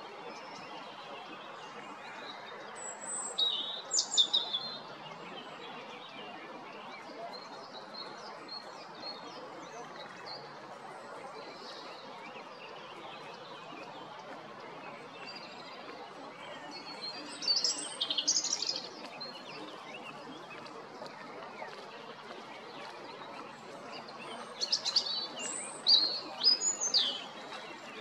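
European robin singing: three loud phrases of high, quick, varied notes, a few seconds in, about midway and near the end, with fainter song between, over a steady background rush of noise.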